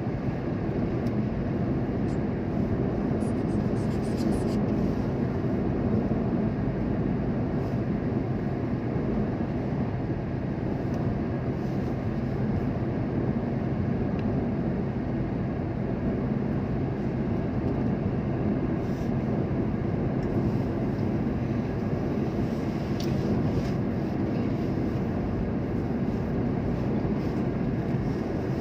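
Steady rumble of a vehicle driving along, engine and road noise with a low hum, unchanging throughout.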